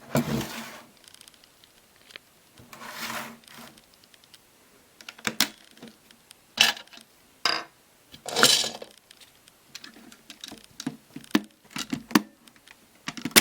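Handling of a plastic toy washing machine: scattered sharp clicks and knocks, and three short scraping or rustling swells.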